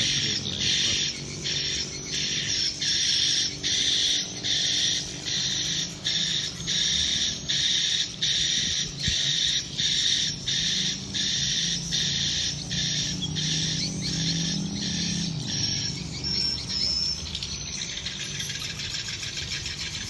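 Swiftlet chirps repeating at an even pace of nearly two a second, fading out about eighteen seconds in, with a few thin whistles shortly before that.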